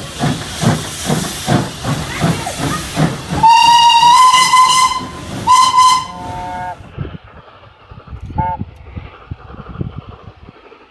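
Steam locomotive working, its exhaust beating in quick regular chuffs, then sounding its whistle: one long blast of about a second and a half, followed by a short one. After the whistle the chuffing fades to a quieter rumble.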